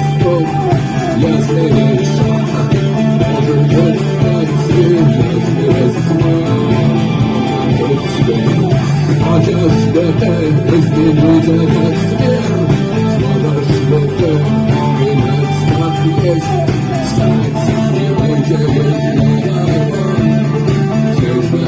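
Rock band playing, with guitar to the fore over a steady bass line.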